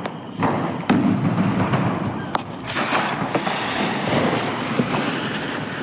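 Firecrackers going off: a few sharp bangs early on, then a continuous crackling hiss.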